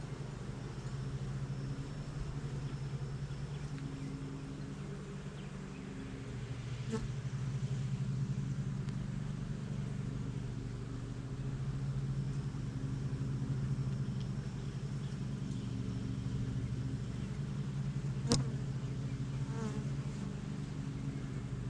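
Honey bees buzzing around an open hive during an inspection: a steady hum of many wings that shifts a little in pitch. A faint click about 7 seconds in and a sharper one about 18 seconds in.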